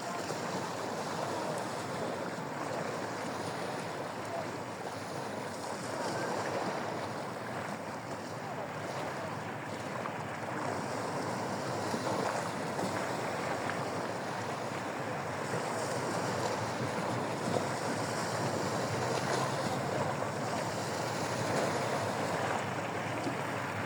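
Steady rushing of wind and water waves, an even wash with no distinct events.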